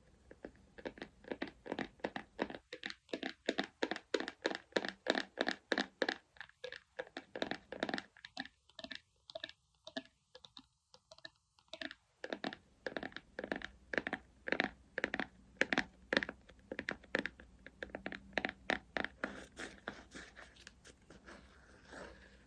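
Quick, steady patting strokes of an ASMR skincare routine, about two to three soft, slightly sticky taps a second, thinning out near the end.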